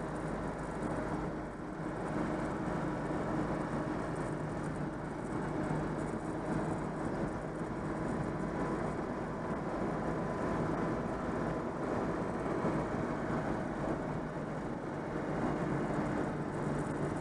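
Citroën 2CV's air-cooled flat-twin engine, freshly overhauled, running steadily on the move at an even speed.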